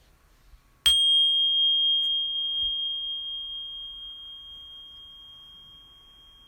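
A small metal meditation bell or chime struck once about a second in, ringing a single clear high tone that slowly fades away.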